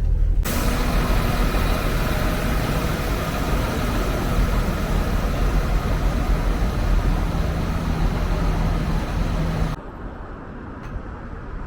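Train running: a steady rumble and hiss with a faint engine hum, starting abruptly about half a second in and cutting off suddenly near the end.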